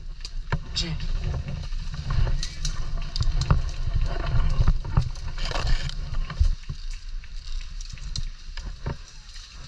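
Low rumble of wind and movement on a body-worn camera microphone, with scattered sharp clicks and knocks at irregular intervals; the rumble eases about two-thirds of the way through.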